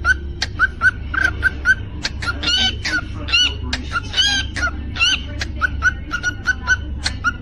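Cockatiel chirping in a quick repeated pattern, about three or four short chirps a second, with a run of louder whistled notes in the middle. A steady low hum sits underneath.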